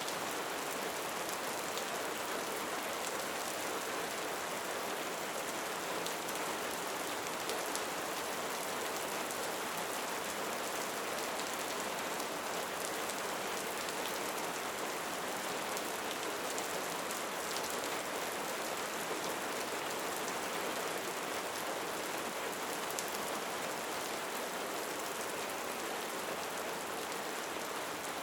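Steady rain falling: an even hiss over a wide range, with many small drop hits throughout and no change in strength.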